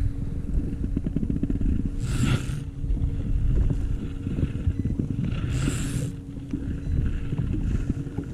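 Wind buffeting the microphone on a boat, with a steady low motor hum that stops near the end. Two brief hissing swells come through, about two seconds in and again about five and a half seconds in.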